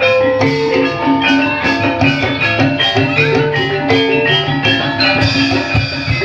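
Javanese gamelan music for ebeg horse dance: metallophones play a steady run of bright struck notes over a drum beat.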